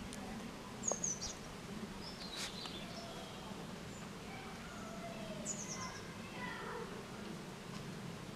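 Small birds chirping outdoors: high chirps about a second in and again around five and a half seconds in, with softer whistled notes between, over a steady low background hum and a few faint clicks.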